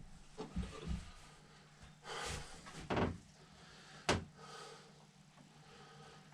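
A few light knocks and clicks of carburetor parts and tools handled on a workbench, the sharpest click about four seconds in, with brief rubbing noises around two and three seconds.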